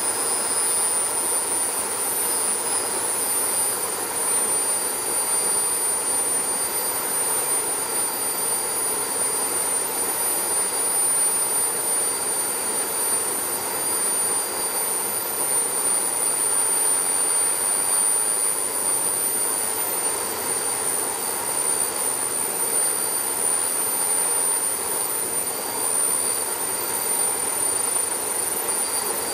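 Twin engines running steadily on a test run: a constant high whine over an even rushing noise, with no change in speed.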